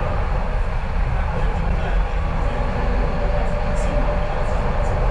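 Docklands Light Railway train running, heard from inside the carriage: a steady rumble of wheels on track with a faint even hum above it.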